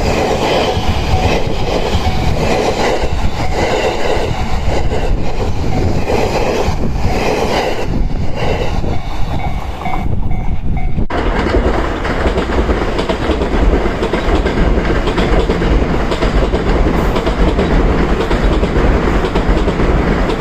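A train running along the track: rolling noise with a rough, recurring clatter of wheels over rail joints, then, after an abrupt cut about eleven seconds in, a steady, dense rushing of a train passing close by.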